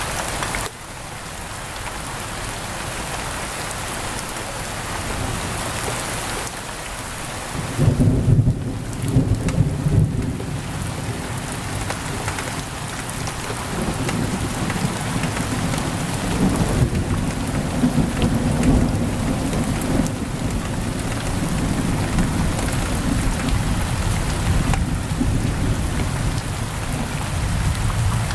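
Steady heavy rain on a window. Thunder rumbles in about eight seconds in, and a longer roll of thunder follows from about fourteen seconds on.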